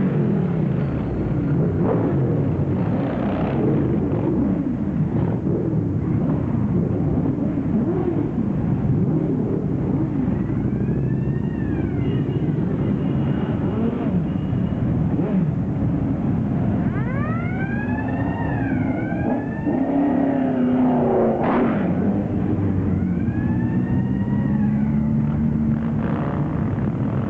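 A large group of motorcycles running together as they ride off, a dense engine rumble. Several bikes rev up and back down now and then, most plainly in the second half.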